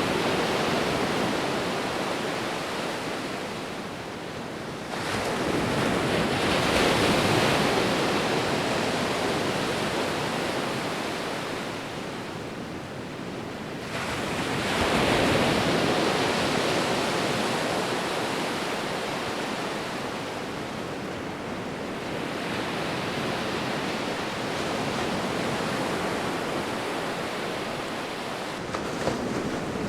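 Sea waves breaking and washing up a beach, a steady rushing surf that swells with each wave, about three surges in half a minute, then slowly ebbs.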